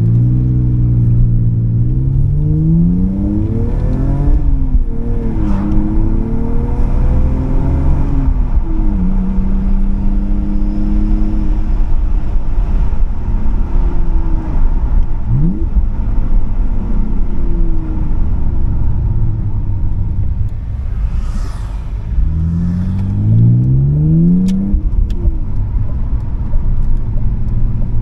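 BMW E46 323i's straight-six engine, fitted with a custom exhaust, accelerating through the gears: the pitch climbs, drops back at each shift and climbs again, then settles to steady cruising. Near the end it pulls up through the gears again.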